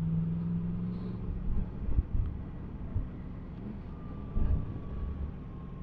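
Yamaha MT-10 SP's crossplane inline-four engine running as the bike rides along, with low wind rumble on the helmet-camera microphone and a few dull thumps.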